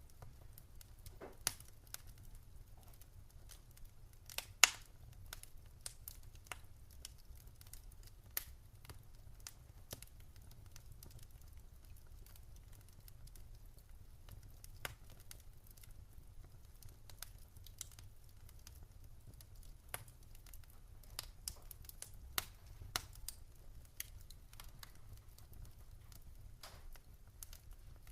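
Wood fire in a fireplace crackling, with scattered sharp pops, the loudest about four and a half seconds in, over a low steady rumble.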